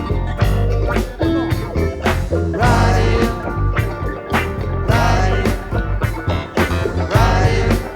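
Live rock band playing: electric guitars, keyboard, bass and a drum kit with a steady beat, with some sung vocal lines.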